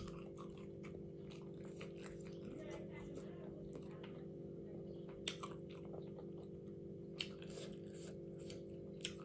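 A person chewing food close to the microphone, with scattered soft crunches and a few sharper clicks, over a steady low hum.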